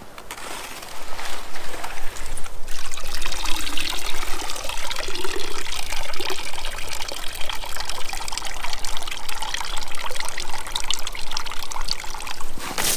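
Water pouring steadily into a horse water trough that has just been broken free of ice. The pouring starts about a second in, breaks off briefly, and runs on until a sharp click near the end.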